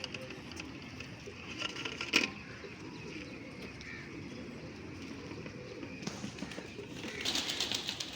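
Domestic pigeons cooing, with a sharp click about two seconds in and a quick flutter of wings near the end.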